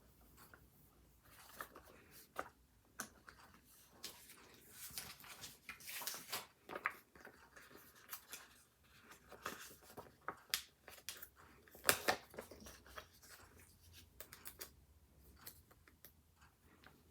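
Paper and stationery being handled on a desk: irregular rustling with small clicks and taps, busiest a few seconds in, with one sharper click around the middle.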